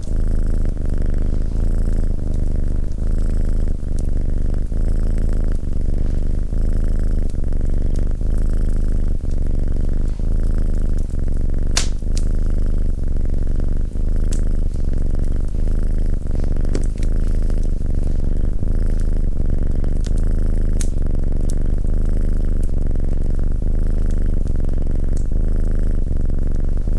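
Domestic cat purring loudly and steadily, pulsing in a slow, even rhythm of breaths in and out. A few sharp crackles of a wood fire cut in, the loudest about twelve seconds in.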